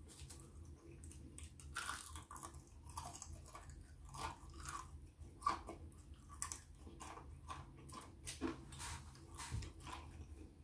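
A person chewing and crunching fried food close to the microphone, an irregular run of crunchy bites and chews.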